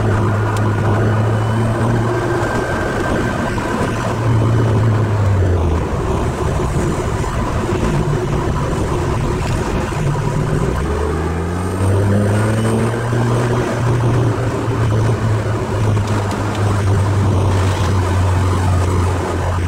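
Ferrari 308 GTSi's V8 engine heard from inside the cabin over tyre and road noise, running at a steady drone, easing off about five seconds in, then rising quickly in pitch as it accelerates about eleven seconds in and settling back into a steady drone.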